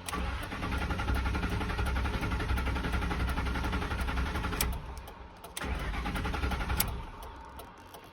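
A 4.6-litre V8 truck engine being cranked on the starter without firing, in two attempts: a long one, a brief pause just under five seconds in, then a shorter one. It is a crank-no-start after the engine cut out while driving, which the owner suspects is a failed fuel pump.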